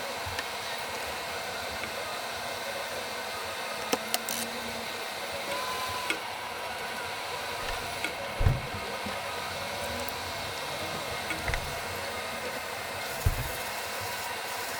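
Small hobby airbrush compressor running with a steady hum, with a few clicks and low knocks from handling.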